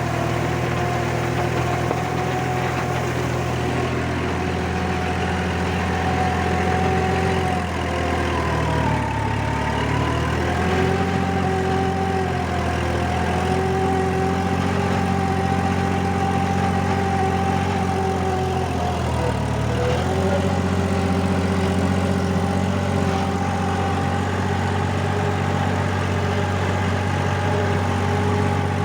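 Four-wheel-drive tractor engine running steadily while pulling a rotavator through deep paddy mud. Its speed dips briefly twice, about ten seconds apart, then recovers.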